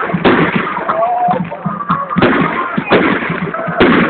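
Fireworks going off in a rapid string of sharp bangs and crackles, the loudest bangs coming a little past two seconds in, around three seconds in and just before the end.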